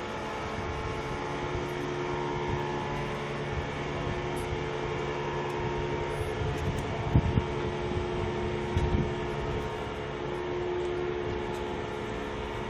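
Steady mechanical drone with a few held tones, like a vehicle or machine engine running, with a couple of short knocks about seven and nine seconds in.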